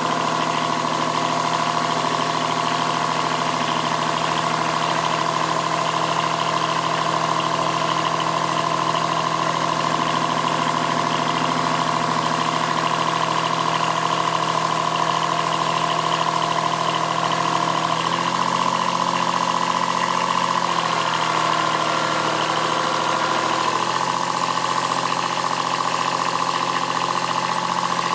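Kubota B7001 tractor's D850 diesel engine running steadily under load as it pulls a grape vine stump with a steel cable. The engine note shifts in pitch a few times about two-thirds of the way through.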